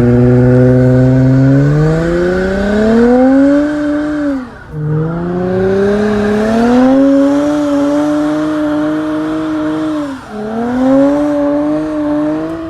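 Car engine accelerating hard, its pitch climbing and then dropping sharply twice as it shifts up a gear, climbing again after each shift.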